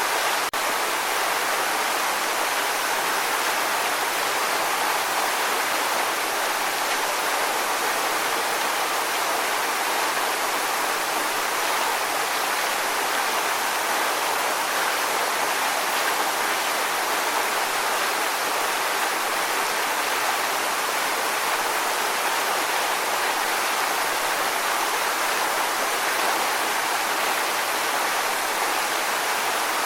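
Steady rushing water: an even, unchanging hiss with no swells or breaks.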